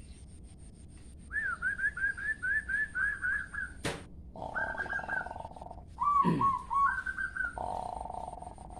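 Songbird singing a varied phrase: a quick run of repeated chirps, then buzzy notes, falling whistled sweeps and a short trill, used as a lure song for caged birds. A single sharp click comes about four seconds in.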